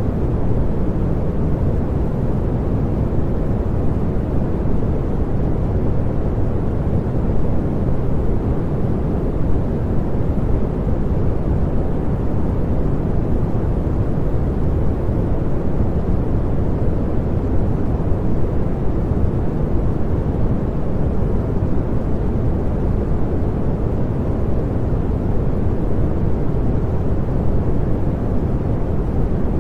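Continuous synthetic pink noise: a steady, even hiss weighted toward the low end, unchanging throughout.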